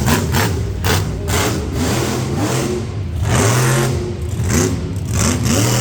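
Monster truck engine revving hard, its pitch climbing and dropping again and again as the driver works the throttle through a run, with several sharp knocks along the way.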